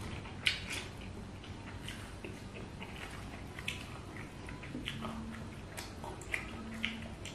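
Close chewing and lip-smacking of a man eating rice and Padang food by hand, with scattered wet clicks of the mouth and a few brief low hums.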